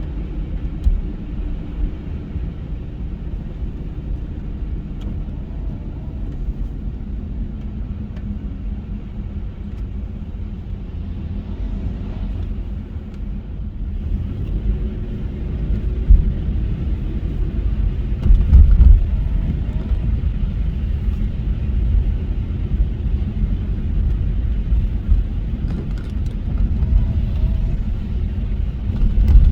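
Car driving, a steady low rumble of engine and road noise, with a few louder low thuds about halfway through and again near the end.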